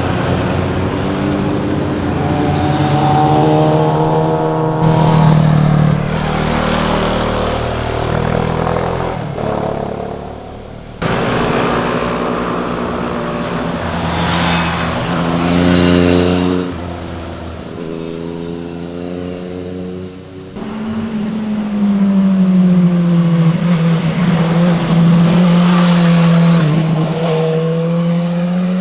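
Sport motorcycles passing one after another, engines revving up and dropping between gear changes. There are abrupt cuts from one pass to the next, and near the end one engine revs up and holds a loud, steady note.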